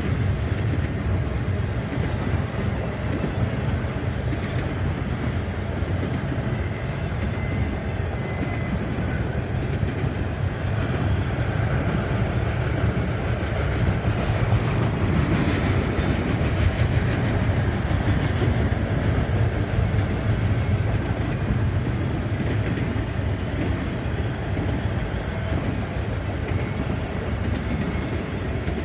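CN double-stack container train rolling past: a steady rumble of the loaded well cars' wheels on the rails.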